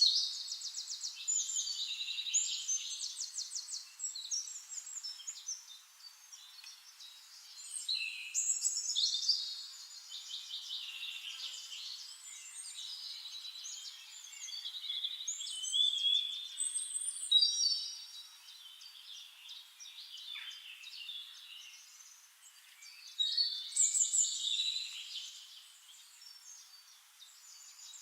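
Birds singing and twittering: high chirps, rapid trills and short sliding whistles in overlapping phrases that swell and fade every few seconds.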